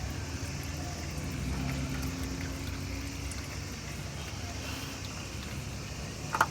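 Lawn mower engine running steadily, its pitch wavering a little, with a short sharp click near the end.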